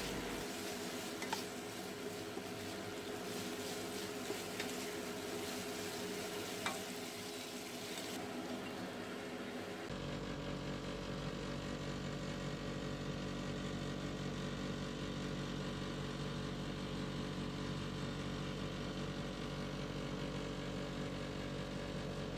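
Chicken drumsticks sizzling in a reducing sauce in a wok as they are stirred with a spatula, with a few light knocks of the spatula on the pan. About ten seconds in, the sizzling stops and a steady low hum takes over.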